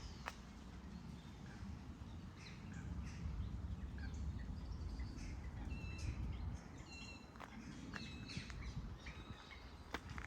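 Small birds chirping and calling, with short high notes and brief whistles scattered throughout, over a low steady rumble.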